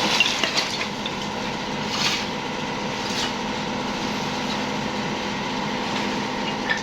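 A motor or engine hums steadily, with a few sharp knocks in the first few seconds.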